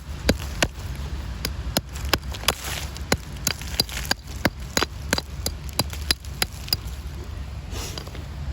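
Sharp irregular clicks and knocks of stones, roughly two to three a second, over a steady low rumble.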